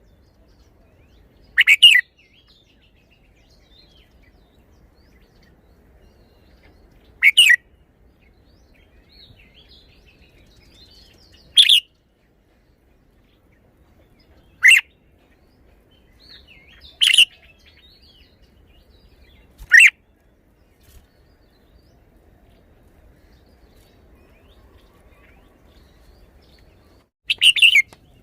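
Red-whiskered bulbul singing short, loud whistled phrases, seven in all, each about half a second long and separated by quiet gaps of a few seconds.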